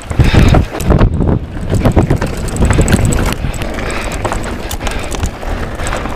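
Mountain bike riding fast down a dirt trail: wind buffeting the camera microphone, tyres on dry dirt, and frequent sharp knocks and rattles from the bike over rough ground.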